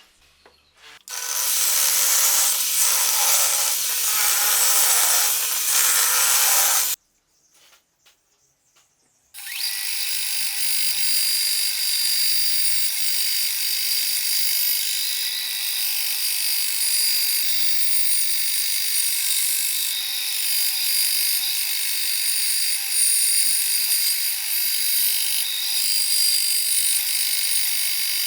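Power tools working wood: about six seconds of loud cutting noise, a short break, then a long steady run with a constant high hum.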